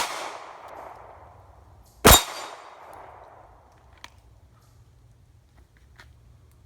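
Two single shots from a Glock 42 .380 pistol with echoing tails. One shot falls right at the start and the other about two seconds in. There is a brief metallic ring with the second shot, fitting a hit on a steel target.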